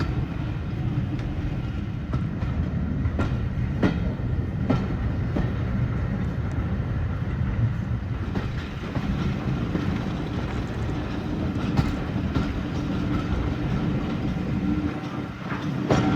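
Railway carriage running along the line: a steady rumble with the clickety-clack of wheels over rail joints, sharp clicks coming about every three-quarters of a second.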